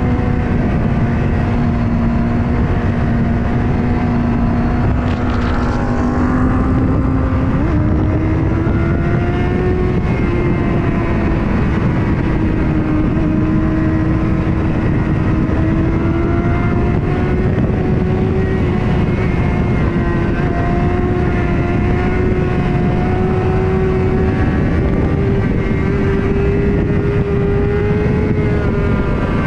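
Motorcycle engine running at speed, holding a steady high note over heavy wind rush on the microphone. About seven seconds in the note steps up, then climbs slowly through the rest.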